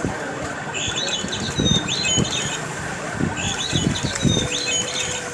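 Recorded birdsong played from a bird-sound clock's small speaker: a phrase of quick high chirps and whistles, repeated once almost identically. A few low thumps sound under it.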